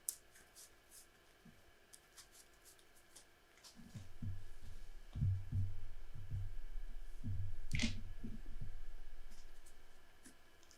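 A deck of trading cards being shuffled by hand: a few faint card clicks at first, then about six seconds of soft low thuds and rustling cards that fade out near the end.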